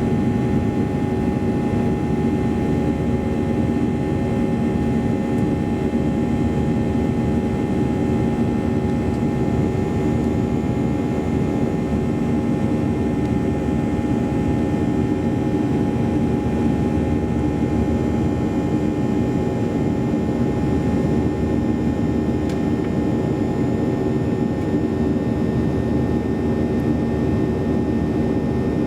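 Steady cabin noise inside a Boeing 737-800 with its CFM56-7B turbofan engines running: an even rushing roar with several steady hum tones over it, unchanging throughout.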